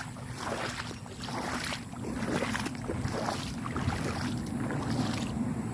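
Gumboots walking through shallow floodwater and soggy ground, sloshing and splashing at each step in a steady walking rhythm.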